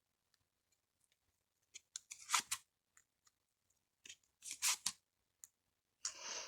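Lenormand cards being drawn from the deck and laid out: a few soft rustles and flicks of card stock, about two seconds apart.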